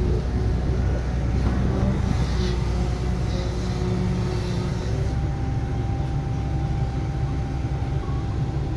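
Diesel engine of heavy earthmoving machinery, such as an excavator, running steadily with a low rumble. A steady tone over it changes pitch about five seconds in.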